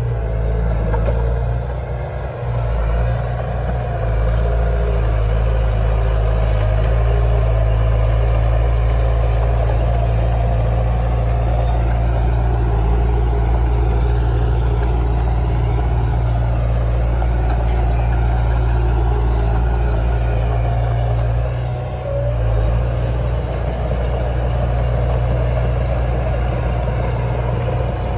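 Heavy diesel engine of earthmoving machinery running steadily with a deep, loud drone, dipping briefly about two seconds in and again near twenty-two seconds.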